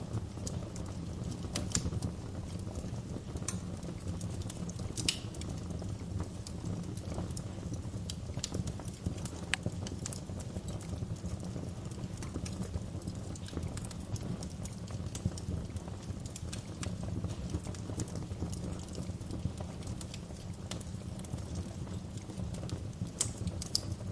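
Wood fire burning in a fireplace: a steady low rumble of flames with irregular crackles and pops, a few louder snaps among them.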